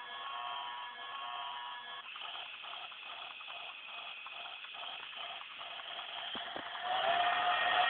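Battery-powered toy train running on its track, its small motor and gears making a rapid, irregular clicking. A few steady tones stop about two seconds in, and a louder whine comes in near the end.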